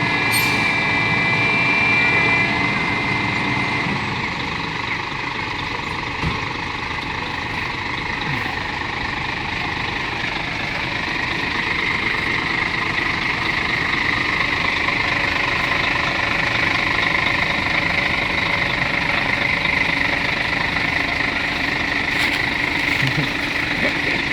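Scania heavy truck's diesel engine running steadily, getting somewhat louder from about ten seconds in as the loaded tractor-trailer moves off.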